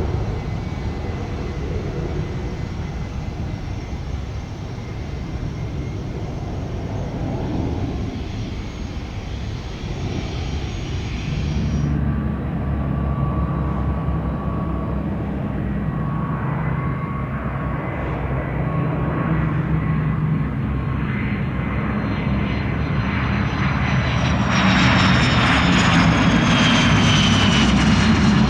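Aircraft engine noise with steady high-pitched whining tones. It changes abruptly about twelve seconds in, and near the end it grows louder as the whine falls in pitch, as an aircraft passes.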